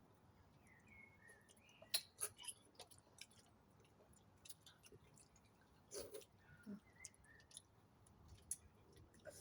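Faint eating sounds: scattered wet clicks and smacks of chewing and lips.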